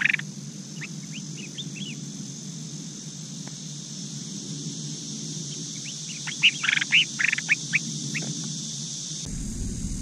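Collared finchbills calling at the nest: a few soft chirps in the first couple of seconds, then a loud burst of short chattering notes about six seconds in, over a steady high hiss. A low rumble comes in near the end.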